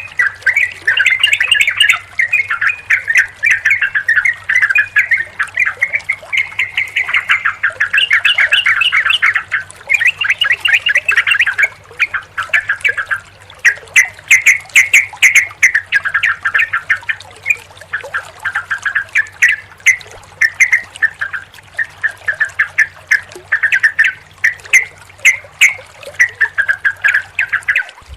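Yellow-vented bulbuls (trucukan) calling in a dense, almost unbroken run of chattering calls and short song phrases, several voices overlapping, over a faint steady low hum.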